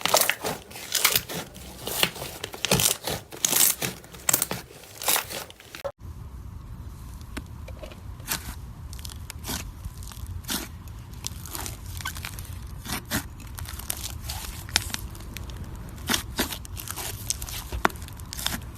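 Slime being squeezed and stretched by hand, giving rapid crackling clicks and pops. About six seconds in, a cut to another clip brings a low steady hum under slower, sparser pops.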